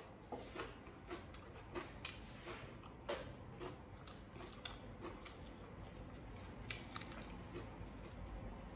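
A person chewing a mouthful of food, with soft, irregular crunches and mouth clicks about once or twice a second.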